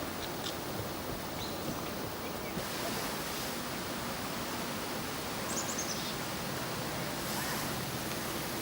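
Steady outdoor background noise, an even hiss with no clear source, with a few faint high bird chirps. There is a quick run of falling chirps about five and a half seconds in.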